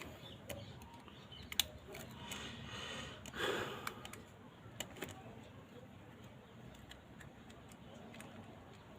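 Faint scattered clicks and light taps, with a brief rustle about three and a half seconds in, from small parts and tools being handled while working on a phone's display.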